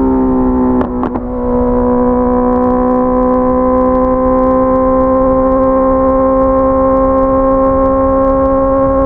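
Honda CBR650R's inline-four engine running at high revs under steady throttle, a high, even note. About a second in the note breaks briefly with a short drop in level, then holds steady again, creeping slowly upward in pitch.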